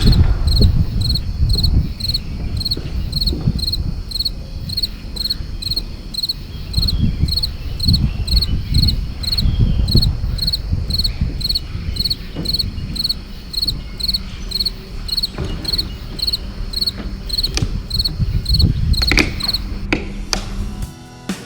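A cricket chirping steadily, short evenly spaced chirps at about two a second, stopping shortly before the end.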